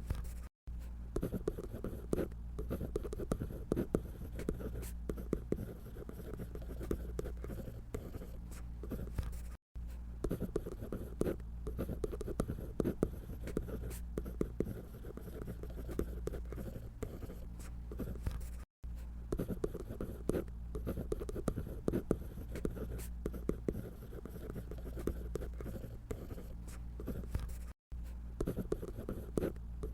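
Scratchy strokes of a drawing tool on paper, quick and continuous, over a steady low hum. The sound cuts out completely for a split second about every nine seconds.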